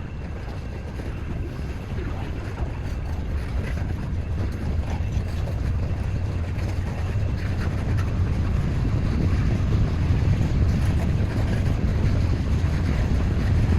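Low, steady rumble of approaching diesel locomotives, growing gradually louder, with wind buffeting the microphone.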